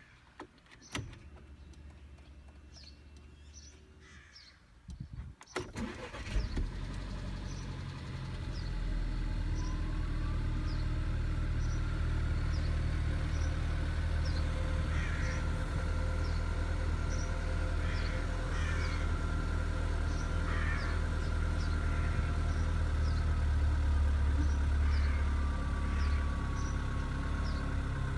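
Volkswagen Passat B7's 1.4 TSI turbocharged four-cylinder petrol engine cold-starting. After a click about a second in, it cranks briefly around five seconds in, catches, and settles into a steady cold idle. A thin whistle rises and then holds above the engine note, which the title calls the turbo whistle.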